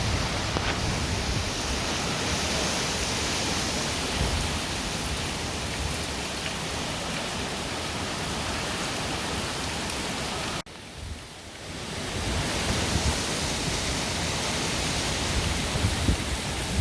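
Heavy tropical-storm rain pouring steadily, with an uneven low rumble underneath. The sound drops out abruptly about two-thirds of the way through, then builds back up.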